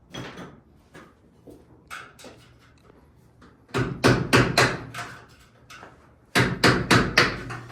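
Rapid hammer blows in two quick runs of about five strikes a second, the first starting about four seconds in and the second near the end, after a few scattered clunks of tools being handled.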